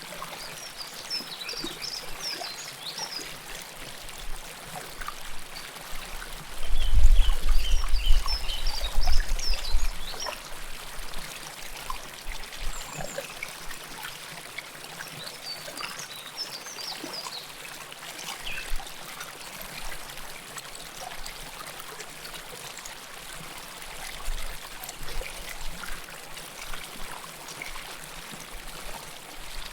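River water flowing and gurgling steadily over stones, heard close up. A deep low rumble comes in about seven seconds in and lasts about three seconds, and a few short high chirps sound over the water in places.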